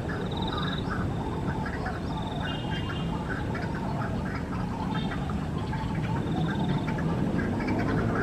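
White-breasted waterhen calling, a continuous run of harsh repeated 'ruak' notes. Short high trills sound over it now and then, above a steady low rumble.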